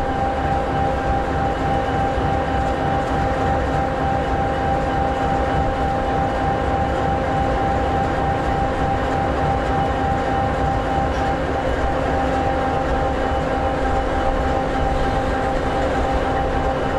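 EMD SD60E locomotive's 16-cylinder two-stroke 16-710G3B diesel engine idling steadily: an even low rumble with a constant whine above it.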